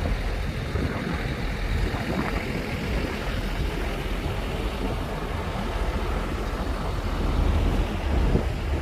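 Shantui bulldozer's diesel engine running steadily with a low rumble, a little louder near the end.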